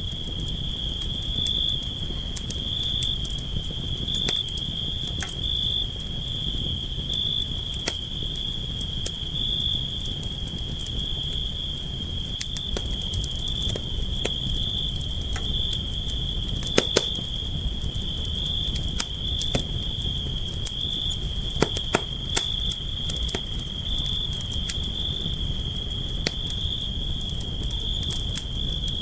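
Campfire crackling, with irregular sharp pops and snaps over a low steady rumble of burning wood. A continuous high-pitched cricket trill runs underneath.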